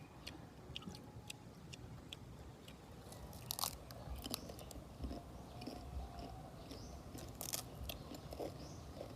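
A person chewing and crunching food: a string of small sharp clicks and crunches, two of them louder, about three and a half and seven and a half seconds in.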